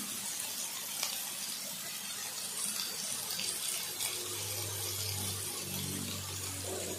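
Frog pieces and lemongrass sizzling in a hot metal wok, a steady hiss, with a faint click about a second in. A low steady hum joins about four seconds in.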